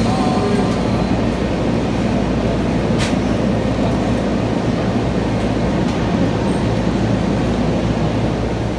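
Electric multiple-unit train standing and moving at the platform as its two coupled sections are split, with a steady low hum and rumble. A sharp click about three seconds in is likely the coupler parting.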